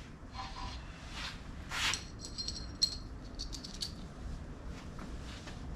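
Timing chain's metal links clinking and rattling as it is handled, with a short run of light clicks and jingles about two to four seconds in, just after a brief scrape.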